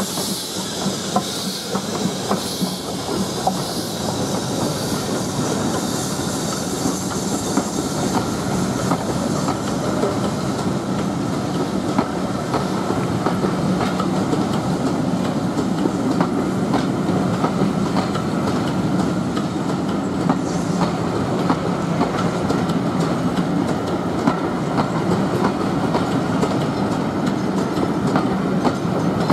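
Steam-hauled passenger coaches rolling past behind BR Standard 4 2-6-0 No.76017, with a steady rumble and the wheels clicking over the rail joints. A steam hiss from the passing locomotive fades away over the first several seconds.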